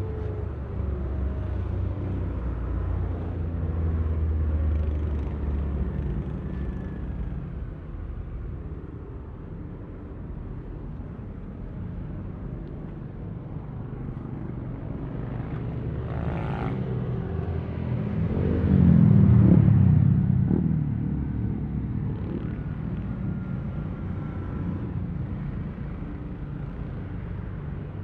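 Yamaha Aerox V3 scooter's 155 cc single-cylinder engine running while riding, with road and wind noise. The sound swells louder for about two seconds roughly two-thirds of the way through, then settles back.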